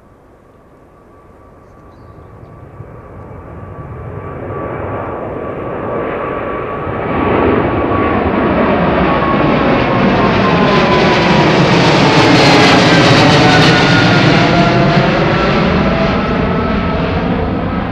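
Boeing 777-300ER's GE90 turbofans at takeoff thrust, growing from a distant rumble to loud as the jet approaches, peaking about two-thirds of the way through. The engine whine then drops in pitch as the aircraft passes, and the noise begins to fade.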